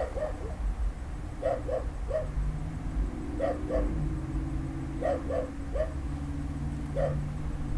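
A dog barking repeatedly in short clusters of two or three barks, about every one and a half seconds. A steady low hum runs underneath from about two seconds in.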